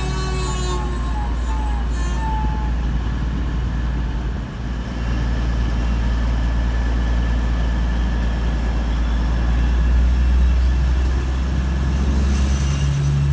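Train running with a steady low rumble and hum, a brief high squeal in the first couple of seconds, and the low hum growing louder near the end.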